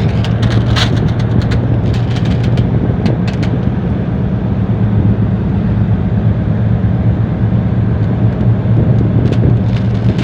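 Tugboat's diesel engine running with a steady low drone, with a few brief crackles near the start and again near the end.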